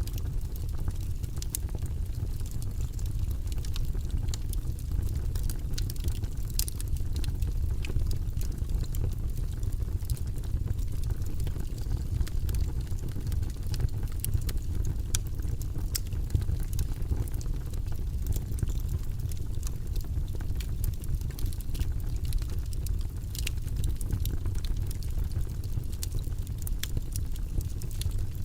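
Logs burning in a fireplace, crackling: scattered sharp pops and snaps over a steady low rumble of the flames.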